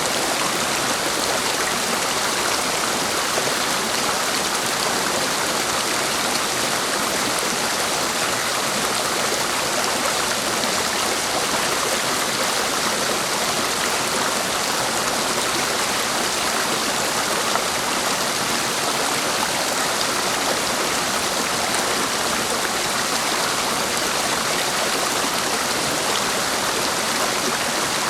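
A clear, fast mountain stream rushing over rocks: a steady, even rush of water with no break.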